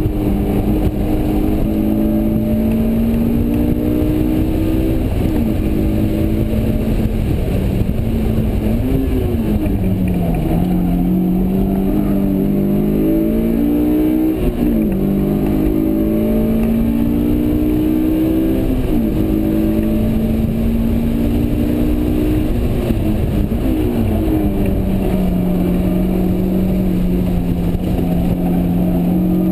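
A Honda S2000's 2.2-litre four-cylinder engine under hard track driving, heard from inside the cabin. Its pitch climbs steadily and drops sharply several times as it pulls through the gears, shifts and slows for corners, over constant tyre and wind noise.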